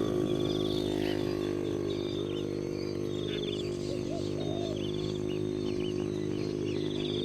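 Birds giving short chirps and quick trills, repeated every second or so, over a steady low droning hum.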